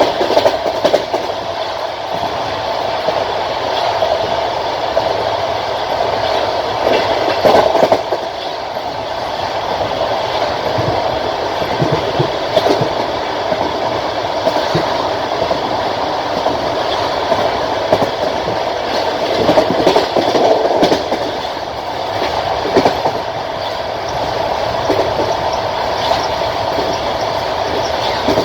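Wheels of a passenger railway coach clattering over rail joints at speed, over a steady rushing rumble of the train in motion, with irregular louder knocks now and then.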